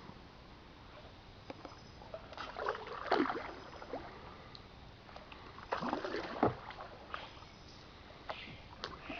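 Canoe paddle strokes in the water: two louder splashing strokes about three seconds apart, with a few small knocks, over a steady background hiss.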